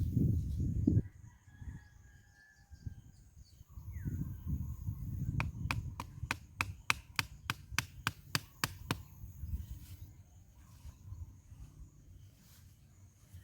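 Roosters crowing in the distance over a low rumble. About five seconds in comes a quick run of a dozen or more sharp taps, roughly four a second, lasting a few seconds.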